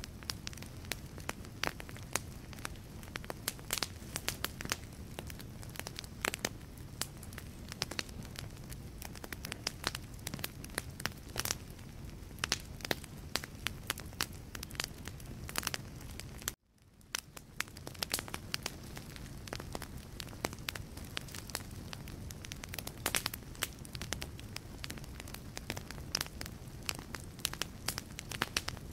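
Wood fire burning in a fireplace, with frequent sharp crackles and pops of burning logs over a steady low rumble of flame. A little past halfway the sound cuts out for an instant and then fades back in.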